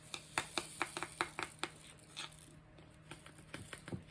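A quick run of small, sharp clicks and taps, about ten in under two seconds, then a few scattered ones: hard little craft supplies being handled and set down.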